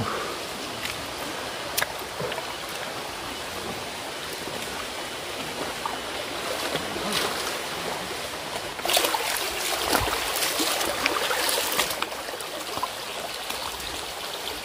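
Clear forest river flowing with a steady rush of water. About nine seconds in the water sound turns louder and more uneven for some three seconds, and there is a single sharp click near the start.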